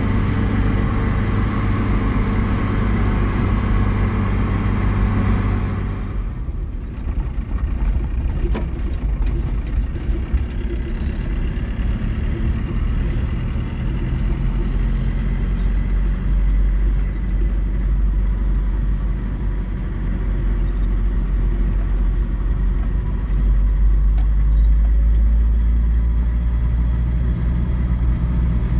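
A motor vehicle's engine running with a steady low rumble; its note changes about six seconds in.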